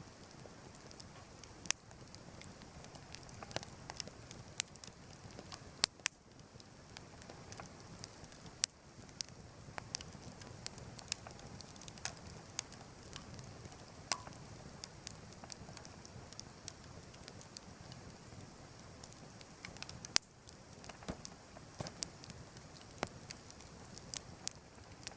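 Wood campfire crackling, with irregular sharp pops and snaps over a soft steady hiss; a few pops are much louder than the rest.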